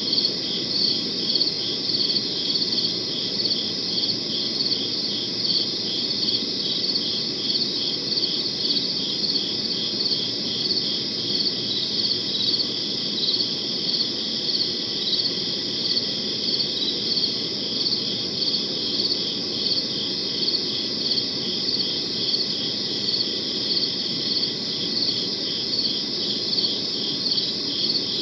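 Crickets chirping steadily, a high pulsing trill that swells in regular beats a little over once a second, over a low steady background noise.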